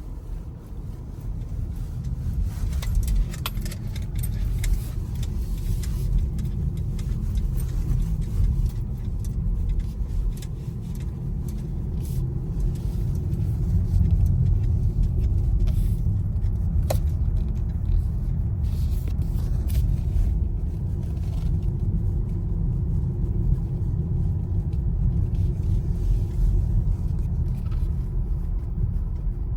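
Road and tyre rumble of a BMW i4 M50 electric car on the move, a steady low noise with no engine note, growing louder over the first dozen seconds or so as it picks up speed, with a few faint clicks.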